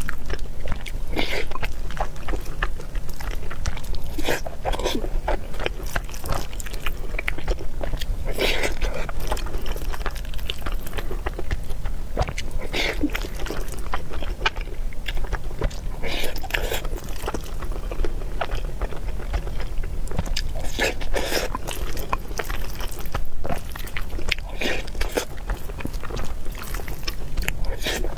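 Close-miked eating: a person chewing and biting food, with many quick irregular mouth clicks and smacks, over a steady low hum.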